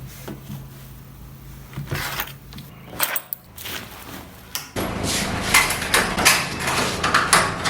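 Scattered clicks and knocks over a low steady hum, with a louder stretch of rapid clattering from about two-thirds of the way through.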